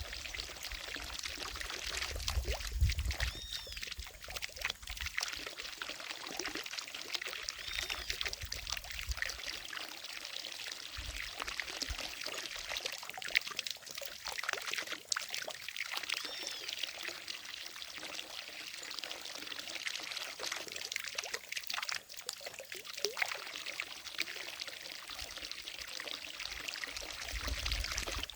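Water falling from a fountain into a lake, a steady splashing pour.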